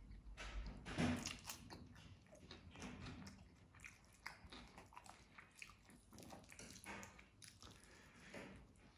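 Close-up eating sounds: chewing and wet mouth clicks as chicken biryani is eaten by hand, with fingers picking through the rice. The sounds are soft, short and irregular, and the loudest comes about a second in.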